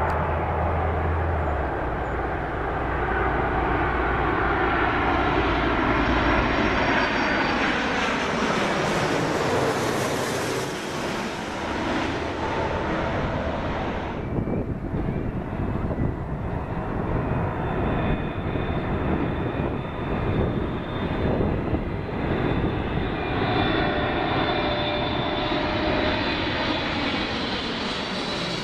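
Jet airliner passing close with its engines running, a steady loud rush whose engine tones glide down in pitch during the first half. The high-pitched hiss fades about halfway through.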